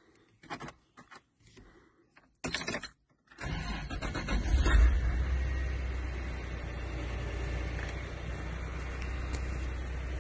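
Toyota 4Runner started with the key: a few key clicks, a brief burst of starter cranking, then the engine catches about three and a half seconds in, flares up for a moment and settles into a steady idle.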